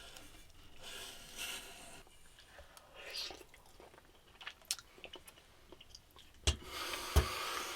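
A person eating: chewing and crunching with scattered small clicks, and two sharp knocks near the end.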